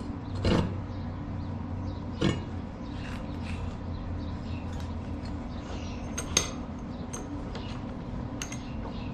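A handful of separate metallic clinks and knocks as pieces of steel are handled and set down, over a steady low hum.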